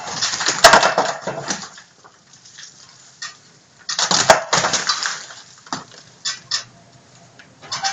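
Bricks and rubble clattering and knocking as an old clay-laid brick fireplace is taken apart by hand, in two bursts about four seconds apart, then a few single knocks.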